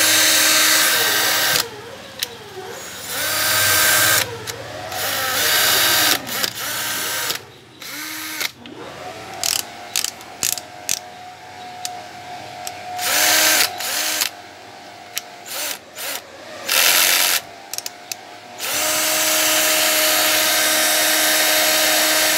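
Rockwell 18V cordless drill/driver running with no load, the trigger squeezed and released over and over, so the motor whine speeds up and slows down. There is a long steady run at the start and another near the end, with many short bursts between them.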